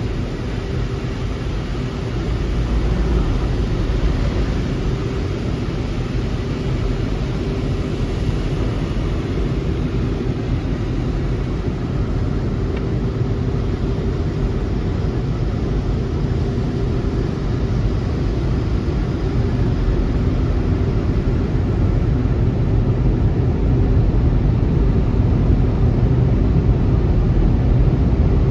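Automatic car wash machinery running: a steady mechanical noise, heaviest in the low end, with a faint steady hum, growing a little louder about three seconds in and again near the end.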